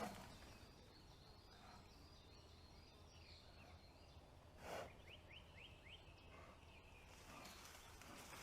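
Faint, near-silent forest ambience with a short rustle a little past halfway, followed by a small bird's call of four quick rising notes.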